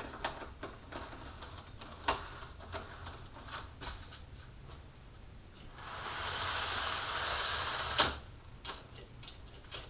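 Model train running on the layout track: a steady motor hum with irregular clicking from the wheels on the rails. Near the end a louder hissing rush lasts about two seconds and ends in a sharp click.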